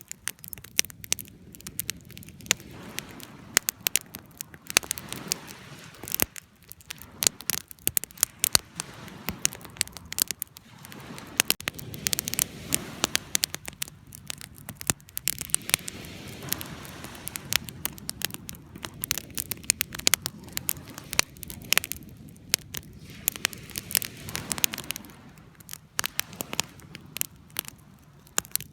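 Wood campfire burning and crackling, with many irregular sharp pops over a soft hiss.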